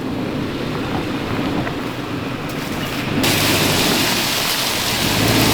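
Tow vehicle's engine running at low speed with a low rumble while pulling a camping trailer into place. About three seconds in, a loud steady hiss sets in suddenly over it.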